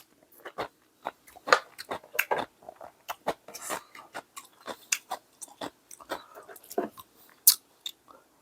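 A person eating close to the microphone: chewing and biting, with irregular wet mouth clicks and smacks.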